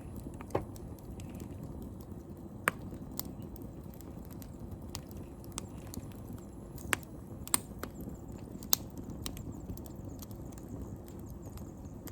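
Wood fire crackling: scattered sharp pops and snaps, a few louder than the rest, over a steady low rush of burning.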